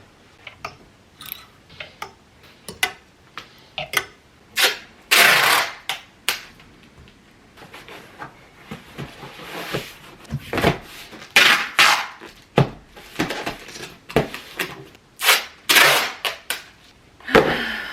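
Household items being handled and moved while a closet corner is cleared out. Irregular knocks and clatters come with several longer scraping and rustling noises.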